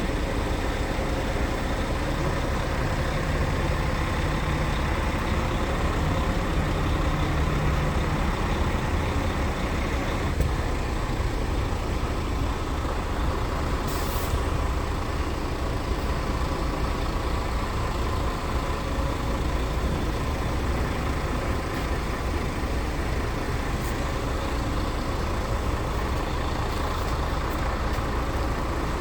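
Scania R tractor unit's diesel engine running steadily, with a short burst of air hiss from the air system about 14 seconds in.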